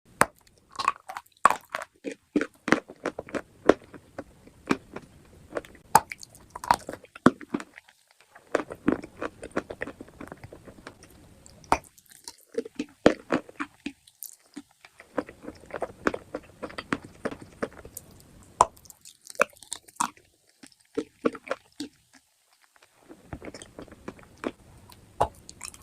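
Close-miked biting and chewing of crunchy chalk and clay: runs of sharp crunches and cracks, broken by brief pauses.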